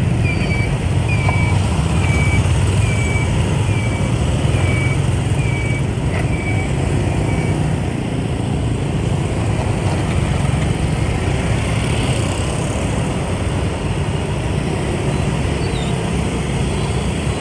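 Motorbike riding in traffic: a steady engine and road rumble with wind noise. A short high beep repeats steadily, about every two-thirds of a second, through the first seven seconds or so.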